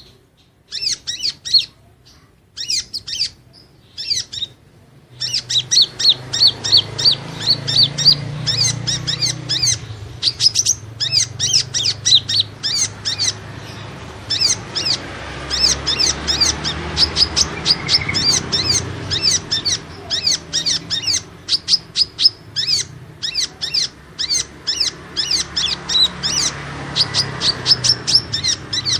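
Kolibri ninja sunbird singing a fast series of high, sharp chirps. The chirps come in short bursts at first, then run into a long, nearly unbroken rapid chatter, over a low steady hum that starts about five seconds in.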